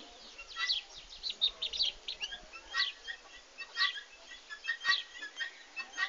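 Small birds chirping, many short high calls in quick succession. A single sharp click about five seconds in.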